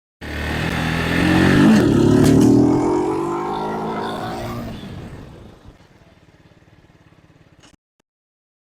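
Vitacci GTT250's 229cc single-cylinder four-stroke engine running and accelerating, loudest about two seconds in, then fading, before the sound cuts off.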